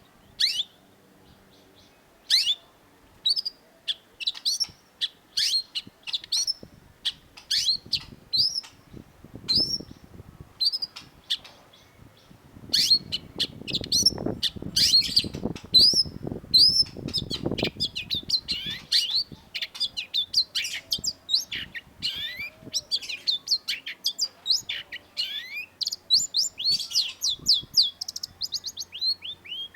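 Long-tailed shrike singing: sharp, high notes that each sweep quickly downward, spaced about a second apart at first, then coming faster and running together into a dense, rapid chatter from about halfway through. A low, muffled noise sits under the song for several seconds in the middle.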